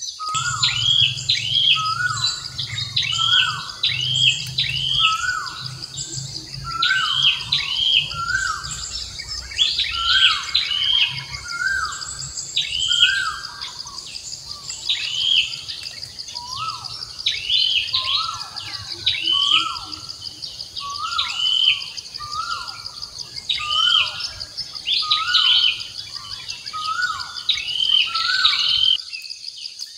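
A bird calling over and over, a short falling note about once a second, each with a higher chirp, over a steady high insect drone. A low rumble runs underneath and cuts off shortly before the end.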